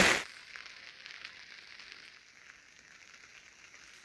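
Faint light rain falling, a soft steady hiss with scattered drip ticks, after a louder sound cuts off at the very start.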